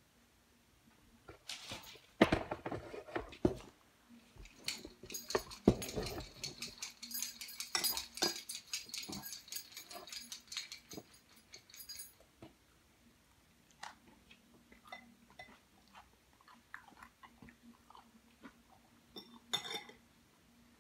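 Close-up crunching of crisp lettuce salad being chewed, dense for several seconds and then sparser, with light clicks of a metal fork in a bowl. A few loud knocks come about two seconds in.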